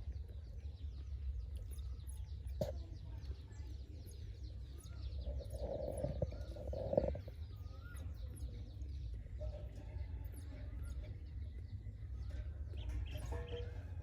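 Small birds chirping repeatedly, with a few short whistled notes, over a steady low rumble. A louder mid-pitched sound comes about halfway through.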